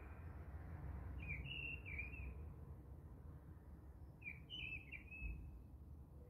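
A bird chirping in short phrases, one starting about a second in and another about four seconds in, over a steady low background rumble.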